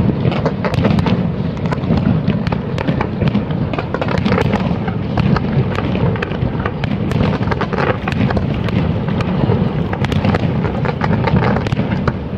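Aerial fireworks display, shells bursting in rapid, overlapping succession: a continuous barrage of sharp cracks and booms over a dense low rumble.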